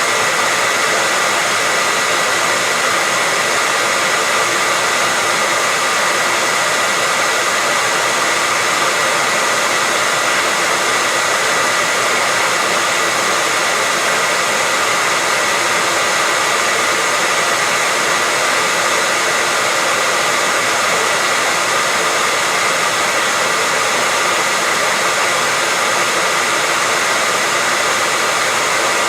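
Electric hair dryer running steadily: an unbroken rush of blown air with a steady high whine from the motor running through it.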